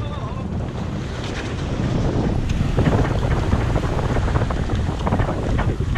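Wind buffeting the microphone aboard a sailboat under way, with water and waves rushing past the hull; it grows louder about two seconds in.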